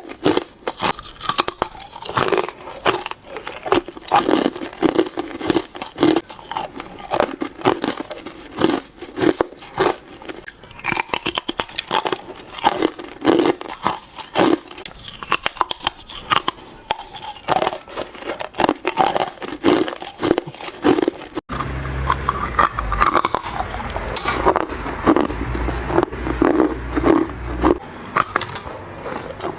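Hard ice being bitten and crunched, a dense run of sharp cracks and crunches. About two-thirds of the way through, the sound cuts abruptly and a low hum joins the crunching.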